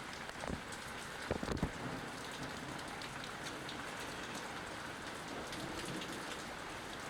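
Steady rain falling after a thunderstorm, with scattered drip ticks and a short cluster of low knocks about a second and a half in.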